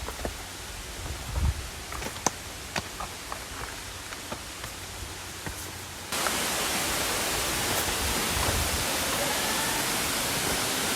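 Scattered light clicks and low rumbles, then from about six seconds in a sudden, steady, loud rush of falling water.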